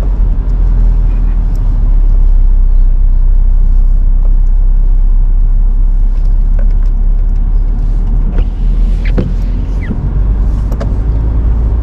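Car on the move, heard from inside the cabin: a steady low rumble of engine and road noise. A few faint short squeaks come in near the end.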